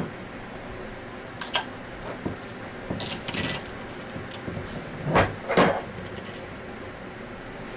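Metal fixtures and parts being handled, clinking and knocking together: a few ringing metallic clinks around three seconds in, then two louder knocks about five seconds in.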